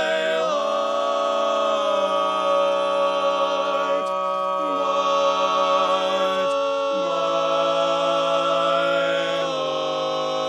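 Barbershop quartet of men singing a cappella in four-part close harmony, holding long sustained chords that shift to a new chord every second or two.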